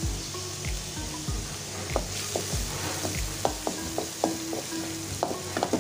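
Chopped onion, ginger, green chilli and curry leaves sizzling in hot oil in a metal wok, with a wooden spatula stirring and knocking against the pan from about two seconds in.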